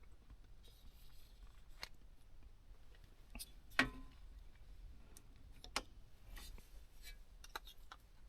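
Scattered soft clicks and knocks of small objects being handled, with one louder knock about four seconds in and another a couple of seconds later.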